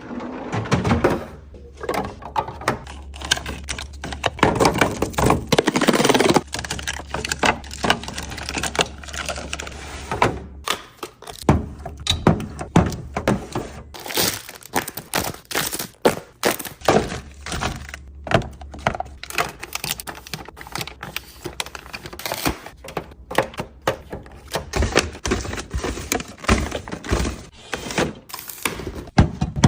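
Packaged food and plastic containers being set down and arranged in a refrigerator: a continual run of knocks, taps and clatters, with a low hum that comes and goes.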